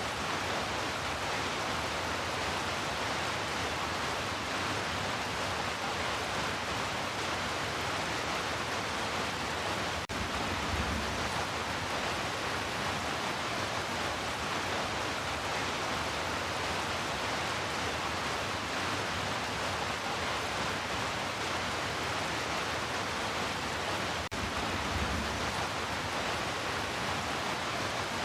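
Heavy rain falling as a steady, dense hiss. A short low rumble comes about eleven seconds in and again near twenty-five seconds.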